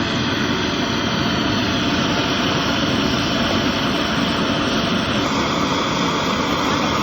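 Workshop machinery running steadily, a loud dense whir with a few steady tones; its pitch pattern shifts about five seconds in.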